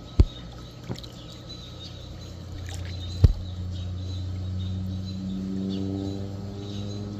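Low-flying small propeller airplane passing over, its engine drone growing louder from a few seconds in. A few sharp knocks cut through it, the loudest about three seconds in.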